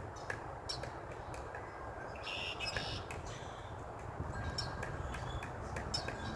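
Pileated woodpecker pecking into a cedar trunk: irregular sharp knocks, a few a second, over a low wind rumble. A brief high ringing sound comes about two and a half seconds in.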